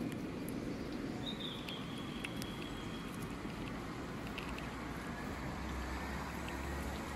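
Outdoor ambience of steady hiss and low rumble, with one drawn-out high whistle from a bird starting about a second in and holding one pitch for nearly two seconds. A few faint clicks.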